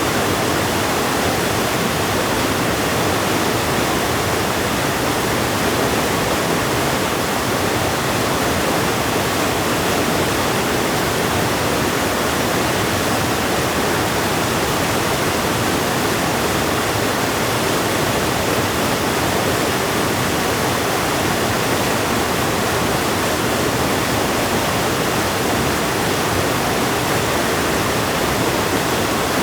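River water rushing, a steady, even noise with no breaks.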